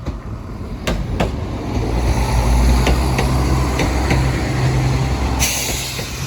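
Diesel passenger train passing over a level crossing: a steady low engine rumble, wheels clicking over rail joints a few times, and a short burst of hiss about five and a half seconds in.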